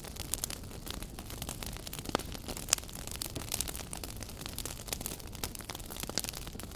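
Wood fire burning in a fireplace, a steady hiss with frequent sharp crackles and pops.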